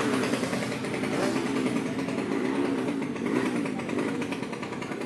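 Motocross motorcycle engine running in the paddock, its pitch rising and falling several times with light throttle blips.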